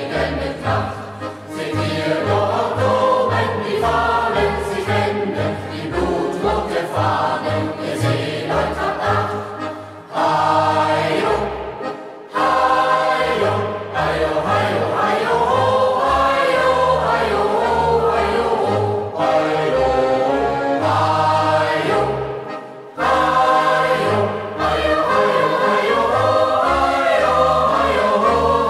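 A youth choir singing a German hiking song together, phrase after phrase, with short breaths between lines.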